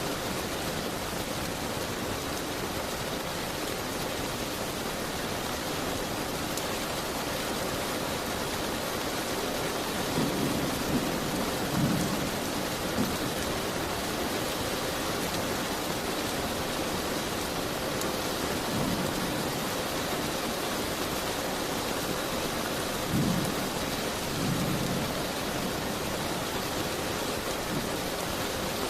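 Steady, heavy rain with a dense even hiss. Several short low rumbles come about a third of the way in and again past the middle.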